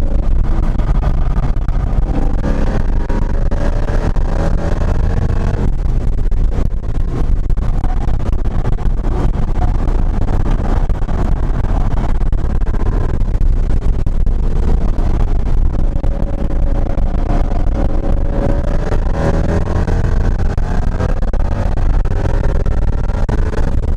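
2017 Ford Mustang GT's 5.0-litre V8 running hard at track pace, heard from inside the cabin. The engine note climbs through the revs, drops off about six seconds in, and rises again in long sweeps later on.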